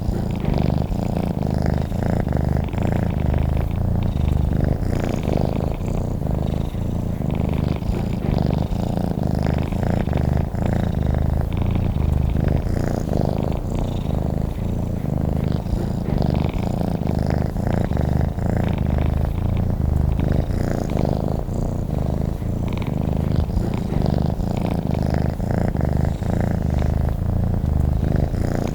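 Domestic cat purring steadily, a continuous low rumble of fast, even pulses that swells and eases about every two seconds with its breathing.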